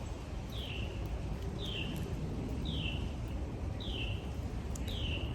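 A bird repeating a short, high call that falls in pitch, about once a second, over steady low outdoor background noise.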